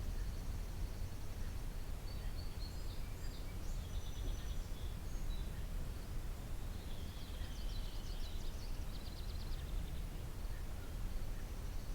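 Songbirds singing in two separate high, chirpy phrases, a few seconds in and again past the middle, over a steady low background rumble.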